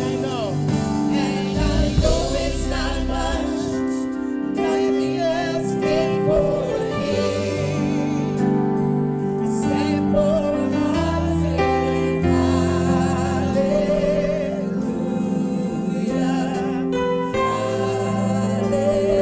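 Live gospel worship music: singers and a choir over held chords and a bass line that steps between notes.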